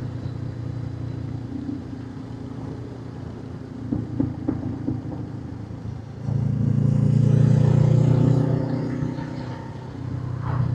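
Motorcycle engine running steadily under way, growing louder a little past halfway as it pulls harder for a few seconds, then easing off.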